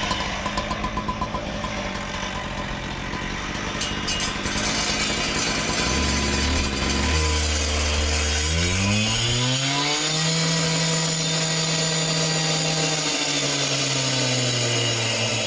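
Two-stroke saw engine running at a low speed, then revving up smoothly to high speed about halfway through and holding there, dipping briefly near the end, as it makes cuts to take a point off a block.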